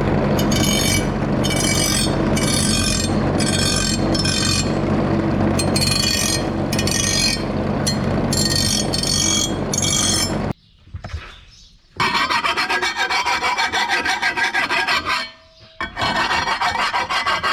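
Baler knives being sharpened with a hand file: repeated rasping strokes of metal on metal, about two a second, over a steady low hum. The filing stops for a moment about ten seconds in, then resumes in faster, denser strokes.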